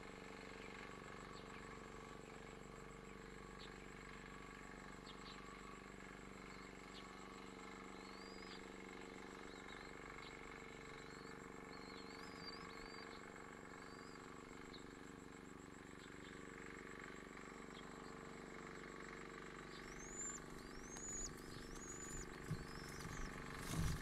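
Faint, high-pitched bird chirps: short arching notes, scattered at first and coming louder and closer together near the end, over a steady low hum.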